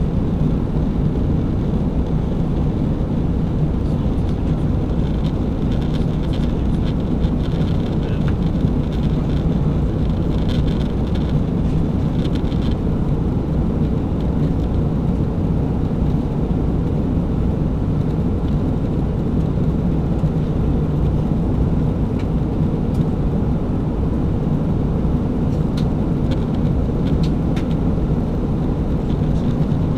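Steady low roar inside the passenger cabin of an Airbus A320 in flight during descent: engine and airflow noise.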